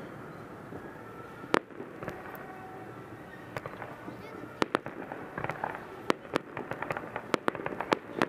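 Aerial fireworks going off: one loud bang about a second and a half in, then from about halfway through a quickening, dense string of sharp cracks and pops.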